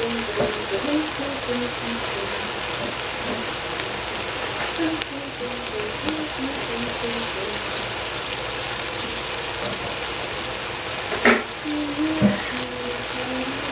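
Bok choy, carrot and tofu sizzling in a stainless steel pot over a strong gas flame, a steady crackling hiss. A faint tune of short held notes runs underneath, and there are two sharp knocks near the end.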